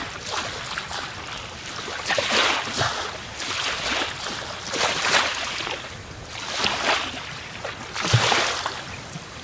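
Water sloshing and splashing against a small boat's hull, swelling in surges every second and a half or so, with a couple of dull knocks.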